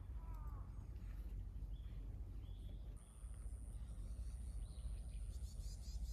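Birds calling on and off over a steady low rumble, with a thin high whine coming in about halfway through.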